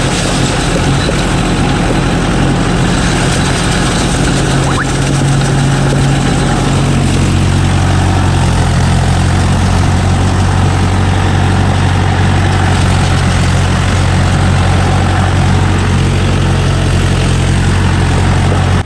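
Swaraj tractor's diesel engine running steadily under load, driving a rotavator in low first gear. Its low hum deepens and strengthens about six and a half seconds in.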